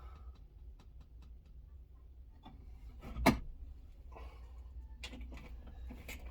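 Light clicks and taps of hand work on a window regulator and motor inside a car door, with one sharp knock about three seconds in and a run of quick clicks starting near the end.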